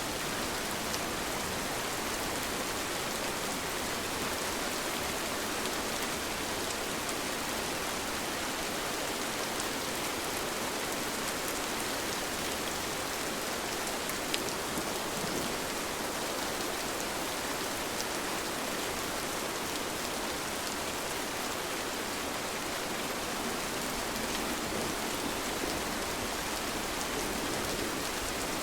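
Steady rain falling, an even hiss of many drops with faint scattered drip ticks, one slightly sharper tick about halfway through.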